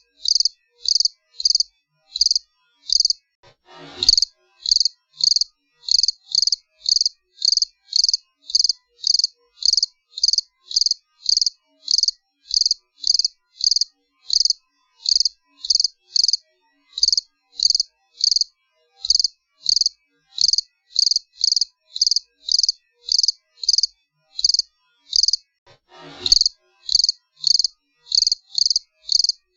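Cricket chirping in a steady, high-pitched rhythm of just under two chirps a second. A short falling sweep cuts in twice, about four seconds in and near the end.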